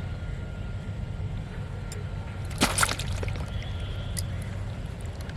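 A brief splash in pond water about two and a half seconds in, over a steady low rumble.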